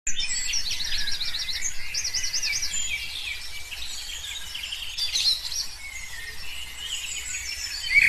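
Songbirds singing, several high chirps and quick trills overlapping, with rapid runs of repeated notes.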